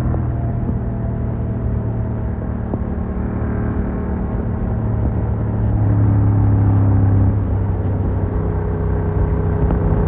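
Yamaha MT-07's 689 cc CP2 parallel-twin engine running at a steady, moderate throttle through an Arrow Works full exhaust with the dB killer fitted, heard muffled from a phone in the rider's backpack. The note swells a little about six seconds in and eases back about a second later.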